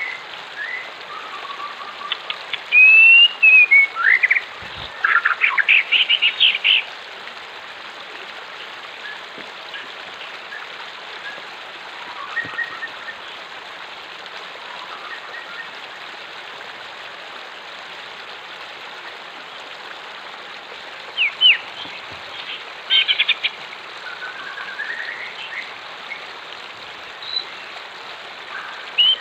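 Wild birds chirping and whistling over a steady rush of flowing water. The calls come in clusters, with whistled slides and quick chirp trills a few seconds in and again about three-quarters of the way through.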